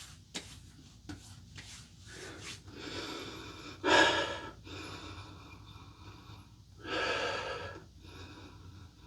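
A man's sharp breaths through the nose and mouth as the sting of an aftershave splash sets in: a few short breaths, the loudest about four seconds in and another about seven seconds in.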